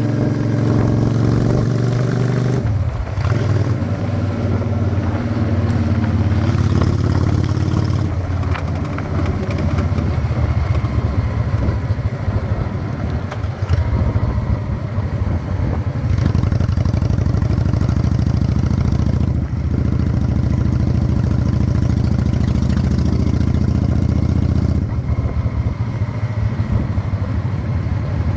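Honda Shadow 600 chopper's V-twin engine running while riding, heard steadily and loudly. Its pitch drops about three seconds in and changes again several times as the revs rise and fall.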